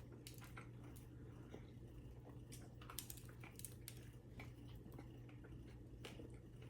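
Faint chewing of a mouthful of sandwich: soft, irregular mouth clicks and smacks over a steady low hum.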